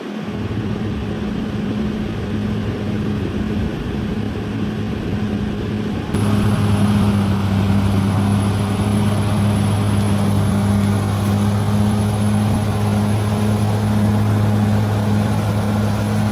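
Bulldozer's diesel engine running steadily with a deep, even hum. About six seconds in it gets suddenly louder and holds there.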